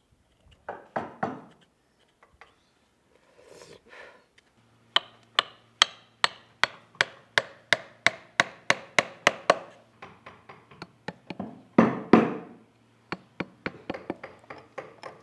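Mallet striking a carving chisel into wood: a steady run of sharp knocks, about three a second, from about five seconds in, then lighter, more irregular taps.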